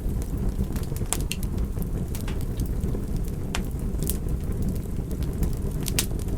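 Campfire burning: scattered sharp crackles and a few louder pops over a steady low rumble of the flames.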